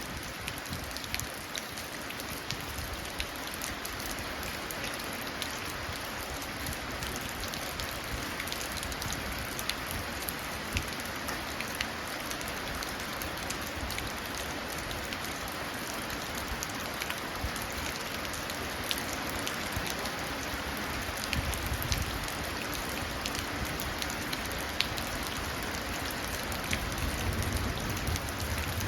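Steady rain falling into a puddle, with many individual drops plinking on the water. A low rumble swells briefly about three-quarters of the way through and again near the end.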